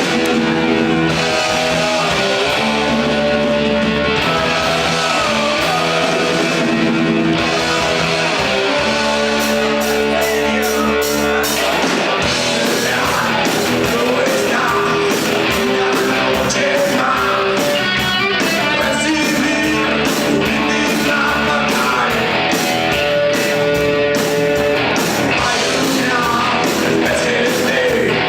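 Rock music with electric guitar; a full drum beat with cymbals comes in about ten seconds in.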